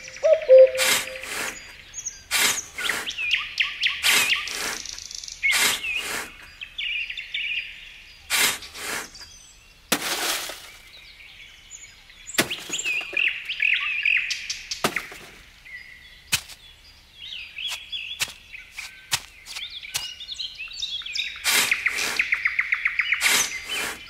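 Small birds chirping and singing, with a rapid trill near the end, over irregular sharp clicks and knocks.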